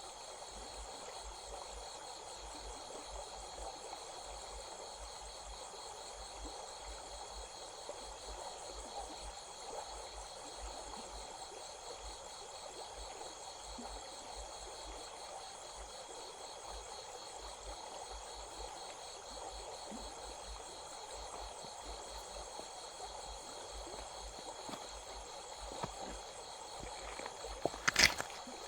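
Crickets and other insects trilling steadily in a dense, finely pulsing high-pitched chorus over the soft rush of a stream. Near the end come a few sharp knocks.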